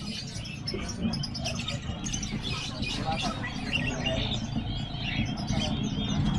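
Many birds chirping rapidly and continuously over a steady low background rumble.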